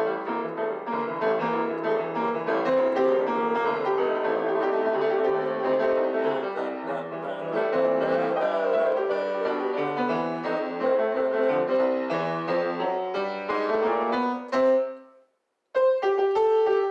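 Piano playing a blues in C: dense runs and chords in an unbroken stream, which cuts out sharply about fifteen seconds in and then picks up again with chords. The player calls the piano out of tune.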